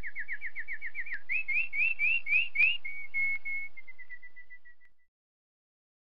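Bird song of clear, repeated notes: a fast run of falling notes, then a few slower rising notes, then level notes that slow and fade out about five seconds in.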